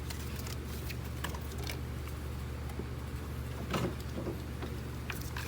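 A few light clicks and a short rustle of hands working loose a plastic clip and ignition cable in an engine bay, over a steady low hum.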